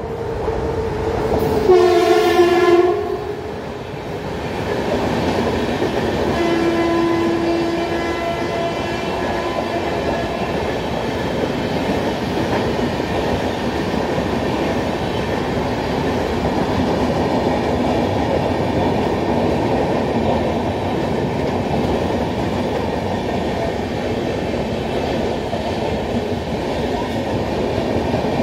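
Purshottam Express (12801) passing at speed. Its horn sounds loudly about two seconds in, then again more faintly for a few seconds, and then the coaches go by with a steady rumble and clickety-clack of wheels over the rails.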